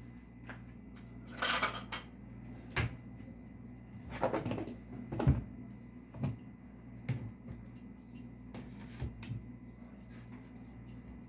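Scattered clicks, knocks and short rustles of a boxed motorcycle GPS multimedia unit and its packaging being handled during unboxing, over a steady low hum.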